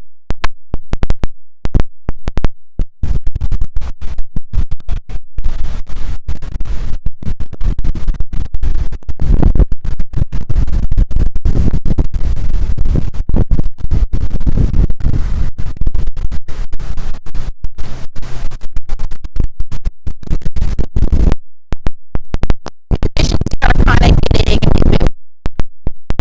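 Strong wind buffeting a phone's microphone: a loud, low rumbling noise, broken over and over by sudden brief cut-outs to silence.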